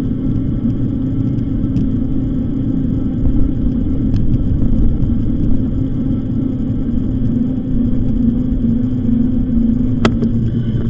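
Steady wind and tyre rumble from riding an e-bike, with a steady low hum throughout and one sharp click near the end.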